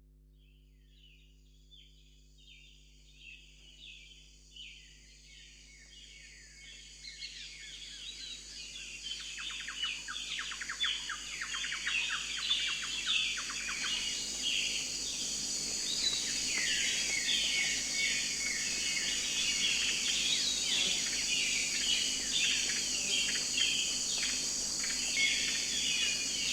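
Many birds chirping and singing at once in a forest, with a steady high insect-like buzz above them. The sound fades up gradually over the first ten seconds or so, then holds steady.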